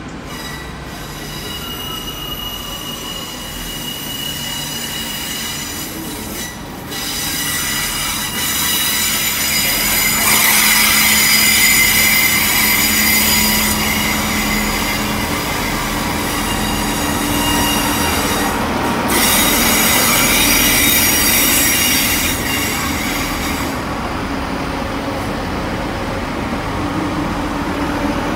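A train moving through the station, its wheels squealing against the rails in high-pitched ringing tones over a low rumble. The squeal swells twice, about a third and two-thirds of the way through, then eases off near the end.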